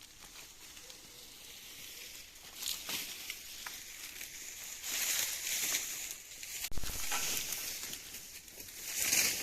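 Dry vegetation rustling and crunching in irregular swells, as dry reeds or leaves are handled or trodden, loudest about five and nine seconds in, with a short low rumble about seven seconds in.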